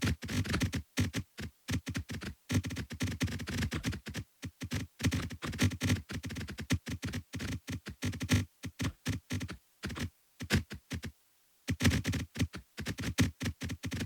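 Electronic sound track of rapid, irregular short blips and crackles, densest in the low end, with a brief silence about eleven seconds in.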